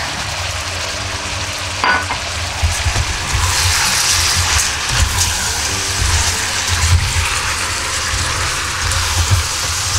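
Chicken thigh pieces and uncooked glutinous rice sizzling in hot oil in a stainless-steel pot, stirred with a spatula that scrapes through them with a few light knocks against the pot.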